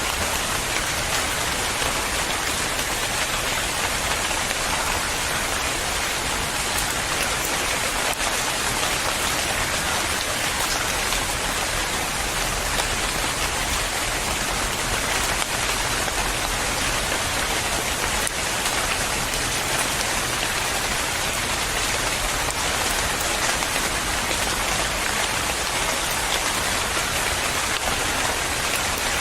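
Steady rain falling, an even hiss of drops on a surface with no breaks or thunder.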